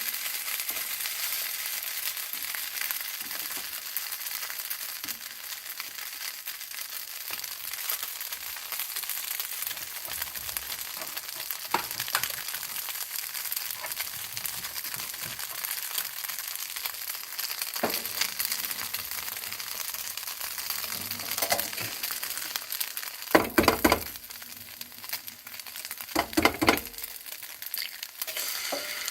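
Reba-nira stir-fry sizzling in a frying pan, with scattered light clicks. There are two louder bursts of noise, about 23 and 26 seconds in.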